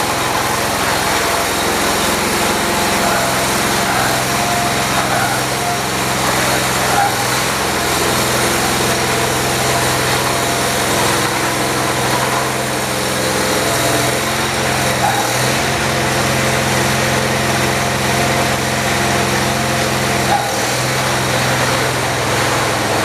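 1978 John Deere 208 lawn tractor's single-cylinder Kohler engine running steadily at throttle under a power test, its head gasket freshly replaced. The engine note shifts briefly about 15 seconds and 20 seconds in.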